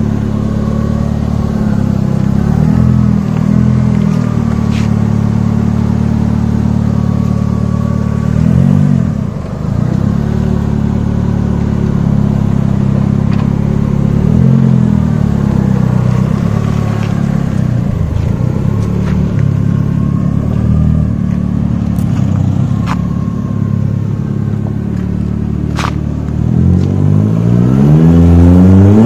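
Toyota 4E-FTE turbocharged four-cylinder engine in a Hyundai Atos running under load while driving, its revs dipping and recovering a few times. Near the end it revs up in a long rising pull.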